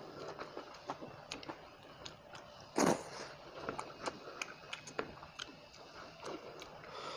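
Close-up eating sounds: chewing with many small wet mouth clicks and smacks, and one louder bite about three seconds in.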